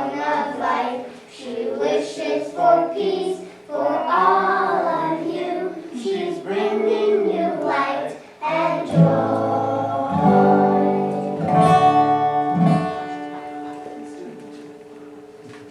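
Children's choir singing with guitar accompaniment. About nine seconds in, the singing gives way to a few strummed, held closing chords that ring and slowly fade.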